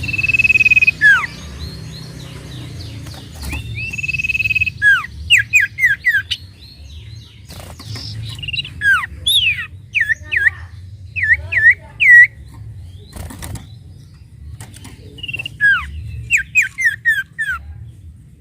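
Sirtu bird singing: a held high whistle, then bouts of quick, sharp downward-slurred whistles repeated in rapid runs, with pauses between the bouts.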